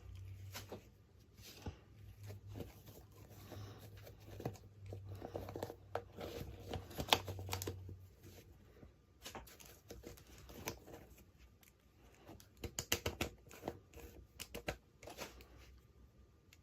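Small plastic toy pieces and packaging being handled and unwrapped: scattered taps and clicks with rustling and tearing, and a quick run of clicks about thirteen seconds in. A low hum sits under the first half.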